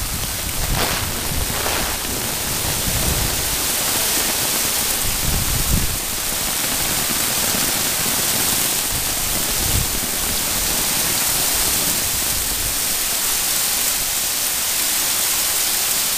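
Heavy rain falling in a steady, even hiss, with a few low rumbles in the first six seconds and one more near ten seconds.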